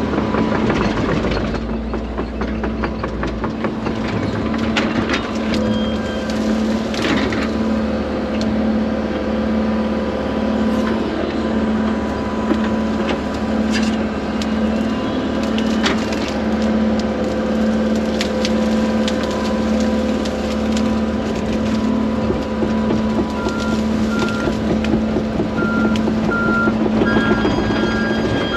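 Diesel excavator running under load as it crushes and loads wet brush and trees onto a dump truck, with wood cracking and snapping throughout. A reversing alarm starts beeping near the end.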